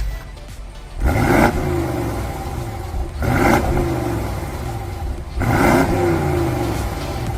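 BMW M550i (G30) twin-turbo V8 with its centre muffler replaced by a straight pipe, blipped three times from idle about two seconds apart, each rev rising sharply and falling back to idle.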